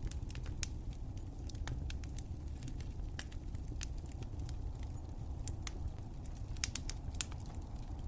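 Wood fire crackling: irregular sharp pops and snaps over a steady low rumble, with a small cluster of louder pops near the end.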